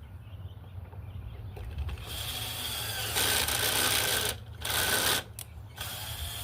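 Power drill boring into hard, old wood in several runs: one building from about two seconds in, the loudest from about three seconds in, a short blip, then another run near the end.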